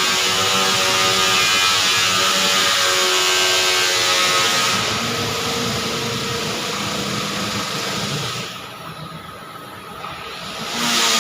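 TIG welding arc on 316L stainless steel giving a steady hissing buzz. The hiss thins out about halfway through, drops away for a couple of seconds near the end, then comes back.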